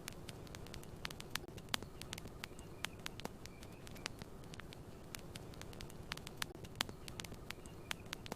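Campfire crackling: irregular sharp pops and snaps over a steady low rumble of burning wood, with faint short chirps recurring about once a second.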